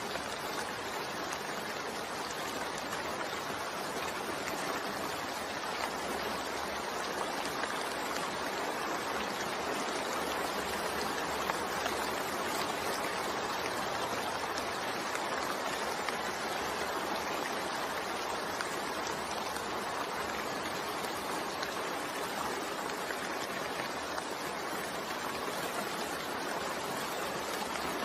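Steady, continuous rain falling, an even hiss without pauses or changes.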